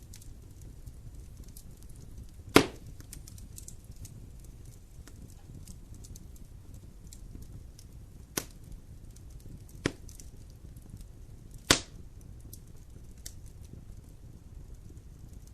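Wood fire burning in a fireplace: a low steady rumble with faint crackling, and four sharp pops from the burning wood, the loudest a few seconds in and again near the end.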